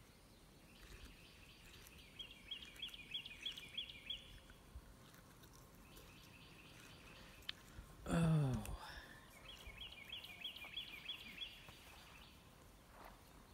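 A bird singing two runs of quick repeated chirps, about three a second, over a quiet outdoor background. About eight seconds in comes one short, low, voice-like sound that falls in pitch, the loudest thing heard.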